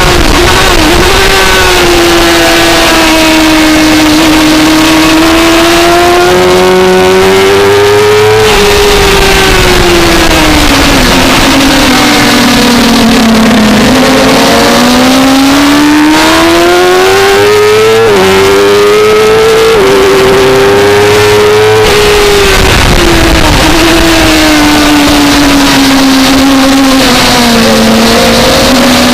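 2004 Suzuki GSX-R600's inline-four engine at race pace, heard on board, its pitch rising and falling through the corners with sudden steps at gear changes. There is a steady rush of noise underneath.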